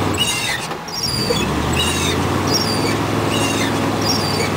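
1960s Fargo pickup truck's engine running steadily as it pushes through deep snow, dipping briefly about a second in before picking up again. A short high squeak repeats about once a second throughout.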